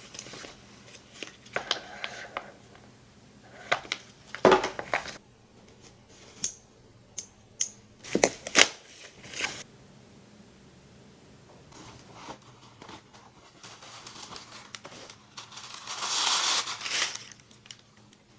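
Product packaging being opened and handled: paper and plastic rustling, tearing and crinkling, with scattered sharp clicks and taps and a longer rustle near the end.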